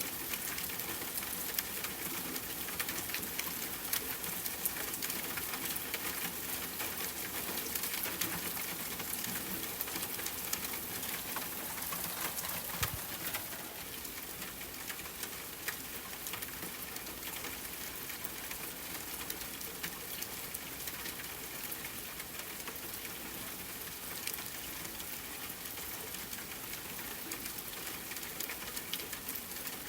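Steady rain pattering on a tent, with campfire crackling mixed in as many small, quick clicks.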